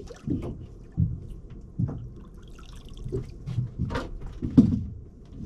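Water dripping and splattering off a freshly caught fish and line as it is lifted aboard a small boat, with irregular knocks of handling against the boat.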